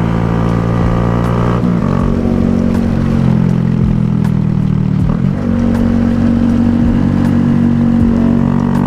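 Honda Grom motorcycle engine running under way. Its pitch steps about two seconds in and again after a brief dip around five seconds in.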